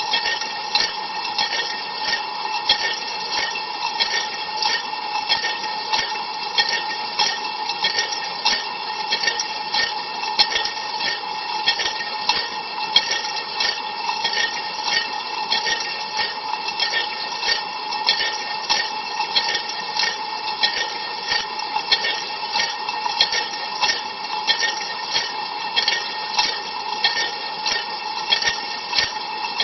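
Inside an Ariston LV 46 A IX dishwasher during a cold-water rinse: water spraying against the racks and the camera, pulsing in a quick, even rhythm, over a steady hum.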